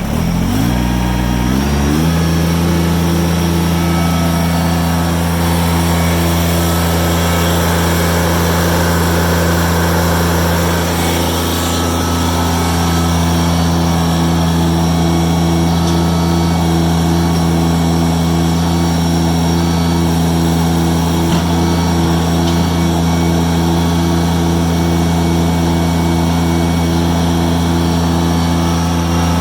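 Kubota BX2660 compact tractor's three-cylinder diesel engine running. Its speed rises over the first two seconds, then it runs steadily.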